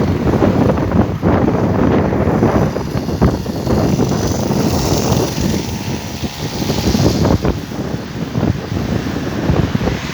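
Wind buffeting the microphone, a loud, gusty rumble that covers everything else.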